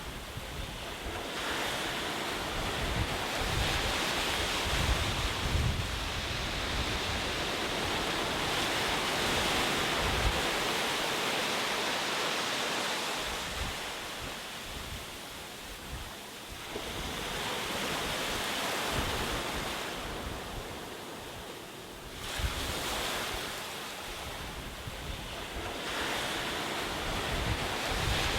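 Ocean surf breaking and washing ashore, rising and falling in slow swells several seconds long, with a low rumble under the louder surges.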